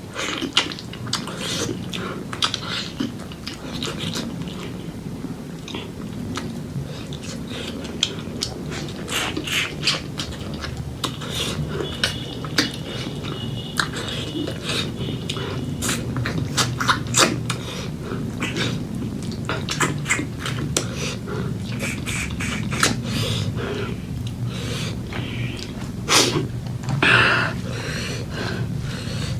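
Close-up eating sounds: wet chewing and mouth smacks on pork leg curry and rice, with scattered sharp clicks and occasional dish clinks.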